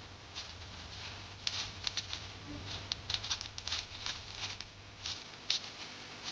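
Irregular light tapping and clicking, with a low steady hum underneath that stops about five seconds in.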